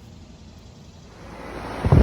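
Outdoor air-conditioner condenser unit running: a faint steady hum, then a rushing of fan air that builds after about a second and turns loud near the end, with a low rumble of air on the microphone.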